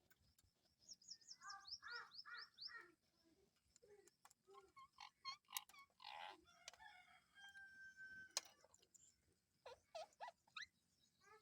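Indian ringneck parrot calling softly: a quick run of chirps, then scattered short calls and a brief held whistle, with a sharp click partway through.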